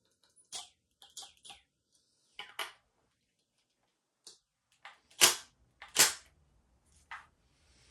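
Tools and workpieces being handled on a workbench: a scatter of sharp clicks and knocks, with two louder knocks about five and six seconds in.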